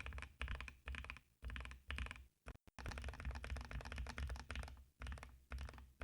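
Typing on a Vissles V84 75% hot-swap mechanical keyboard: fast runs of keystrokes broken by short pauses, with a brief near-silent gap about two and a half seconds in. The typing stops near the end.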